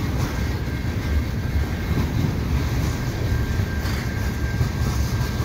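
Railway tank cars of a slow freight train rolling past close by, their steel wheels rumbling steadily on the rails, with a faint high steady whine underneath.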